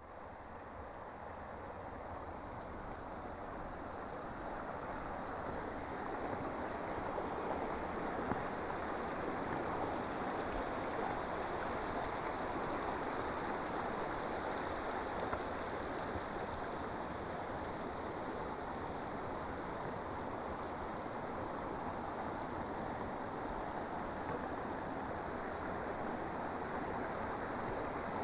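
Steady outdoor ambience: a constant high-pitched insect chorus over an even rushing noise, swelling in over the first several seconds and then holding steady.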